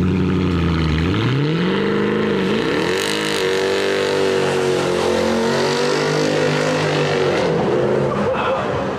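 Sports car engine and exhaust revving: the pitch climbs about a second in, dips briefly, climbs again and holds high for several seconds, then falls away near the end.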